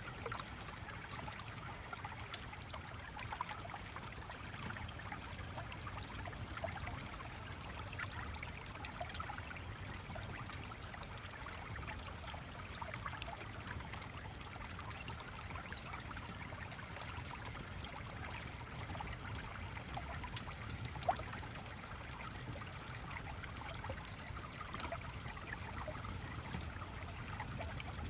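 Steady stream water flowing and trickling, with scattered faint clicks and one sharper click about two-thirds of the way through.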